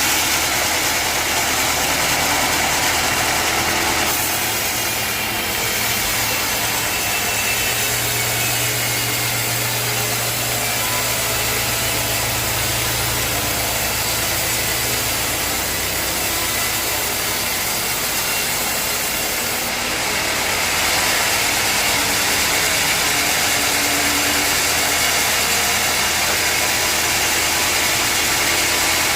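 Sawmill machinery running: a steady engine drone with a saw cutting through a log, the sound shifting a few seconds in and again about two-thirds of the way through.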